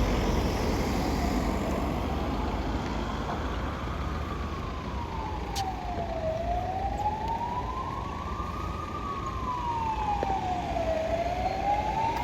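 An emergency vehicle's siren wailing, a single tone rising and falling slowly, about one full cycle every four and a half seconds, becoming clear a few seconds in. Steady road-traffic rumble runs underneath.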